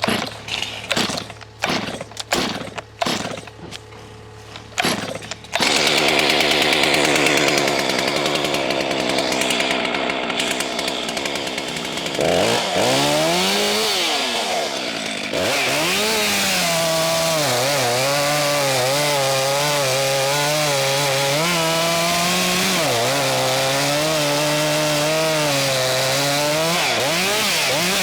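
Two-stroke gas chainsaw running, starting abruptly about five seconds in after a series of short sharp knocks. Its pitch rises and dips as the throttle is worked while it cuts into the wood.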